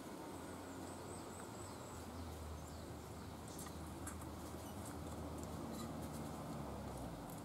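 Faint outdoor ambience: soft high-pitched chirps and short ticks from small birds, with a thin high whistle in the first second or so and clusters of ticks in the middle, over a low steady rumble.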